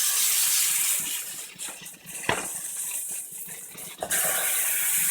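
Marinated chicken legs sizzling loudly as they are laid into a pot of hot oil and burnt curry powder: a hiss that bursts up as the chicken goes in, fades, and flares again about four seconds in as more is added. A single sharp knock about two seconds in.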